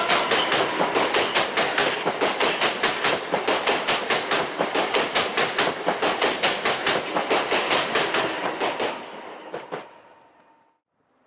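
PKP Intercity ED161 Dart electric multiple unit running past and away, its wheels clicking steadily over the rail joints about three or four times a second. The clatter fades out near the end.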